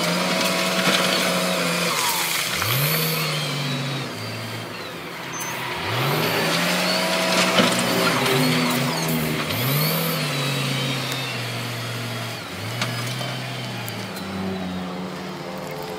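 Heavy earthmoving machine's diesel engine revving up about five times, each time climbing quickly in pitch and holding there under load before easing off. Scraping and scattered clanks run over it.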